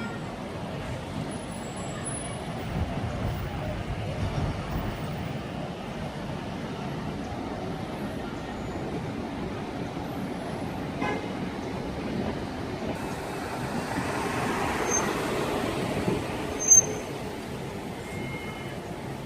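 Street traffic noise, with cars running past steadily. One vehicle swells past about three-quarters of the way in, and a brief sharp sound near the end is the loudest moment.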